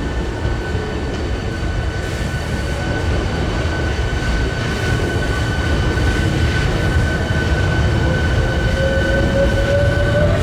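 Hankyu 1300 series electric train pulling away, rumbling, with a steady high electric whine and a lower motor tone that begins to rise in pitch near the end as the train picks up speed.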